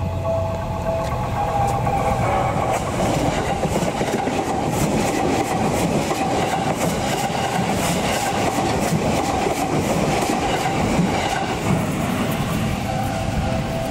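Electric passenger train passing close by, its wheels clattering in a quick run of beats over the rail joints, loudest through the middle. A level-crossing warning signal rings steadily at the start and comes through again near the end as the train noise fades.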